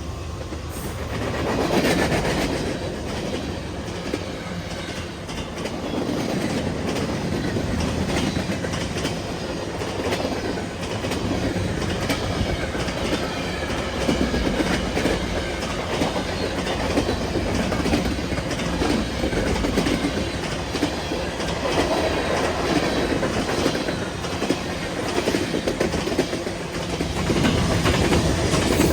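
Canadian Pacific freight train cars rolling past, wheels clicking steadily over the rail joints, getting a little louder near the end.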